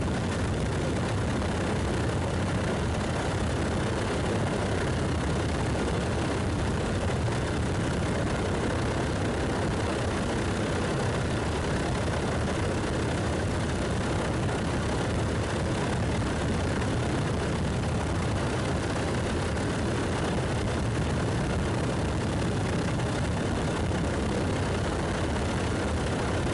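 Steady aircraft engine noise, even and unchanging, heaviest in the low end.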